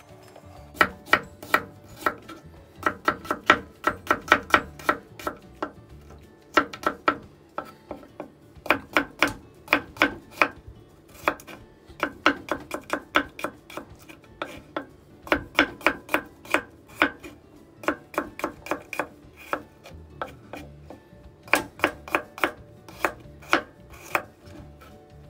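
Kitchen knife slicing peeled garlic cloves on a wooden cutting board: quick runs of sharp taps as the blade strikes the board, with short pauses between runs.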